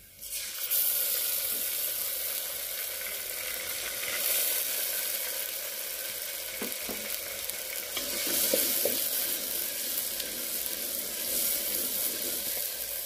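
Ginger-garlic paste and browned onion sizzling in hot oil in a steel pot, with a steady crackling hiss. The sizzle flares up just after the start as the paste goes in. A metal spoon stirs, giving a few light scrapes.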